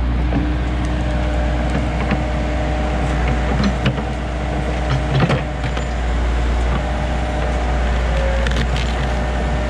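JCB backhoe's diesel engine running steadily under load while wood snaps and cracks several times, roots breaking as a stump is dug out.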